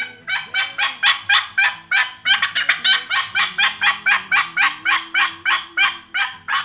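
Diaphragm turkey mouth call blown in a fast, aggressive run of sharp, turkey-like notes, about four to five a second.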